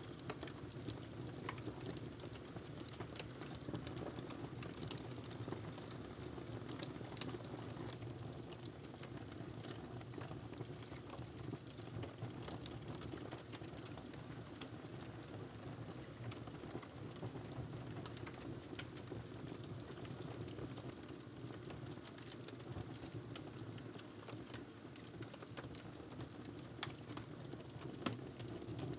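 Wood fire crackling in a fireplace: scattered sharp pops and ticks over a steady low rumble of burning.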